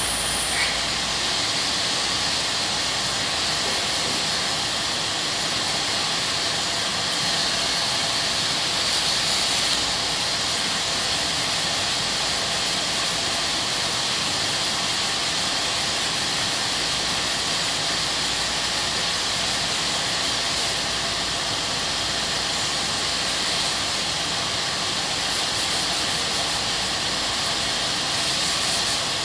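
Steady dry sanding of cured auto body filler, a continuous gritty hiss without breaks.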